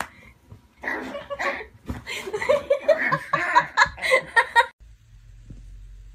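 A person laughing hard in quick broken bursts, which stop abruptly about five seconds in, leaving a faint low hum.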